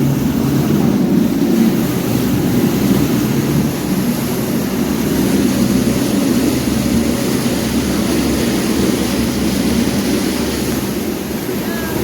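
Boat engine running steadily under way, heard loud from the stern right by the engine, with water and wind rushing past the hull.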